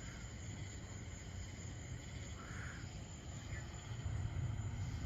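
Night outdoor ambience: steady insect chirring with one short chirp about halfway through, over a low rumble that swells near the end.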